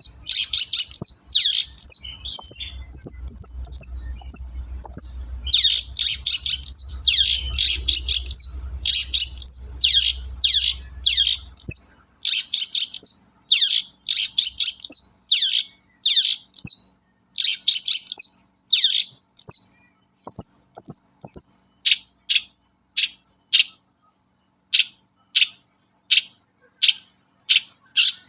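Long-tailed shrike singing: rapid runs of harsh, chattering notes, then about halfway through a slower series of short, sharp calls, roughly two a second.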